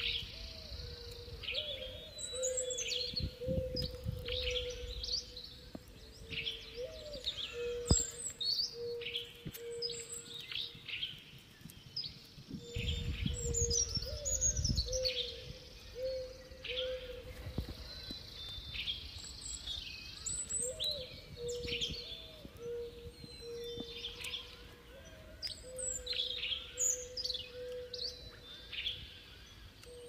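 Many wild birds chirping and calling, short quick notes overlapping one another, over a steady humming call with little upward flicks. Twice a low rumble comes in for a second or two, and there is one sharp click about eight seconds in.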